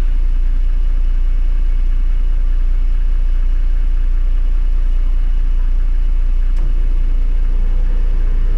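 Toyota LandCruiser 105 series engine idling, a deep, steady drone while the vehicle sits stuck in the ruts.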